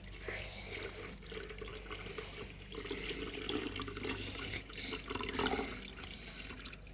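Water running and splashing as it is poured into a humidifier's water tank.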